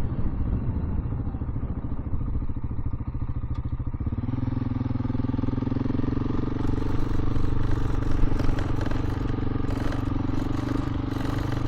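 KTM 690 Enduro's single-cylinder engine running under way, uneven for the first few seconds, then holding a steady speed from about four seconds in.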